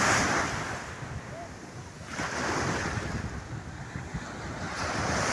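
Stormy sea surf: waves breaking one after another, the rush of water swelling and fading three times about two and a half seconds apart, with wind rumbling on the microphone.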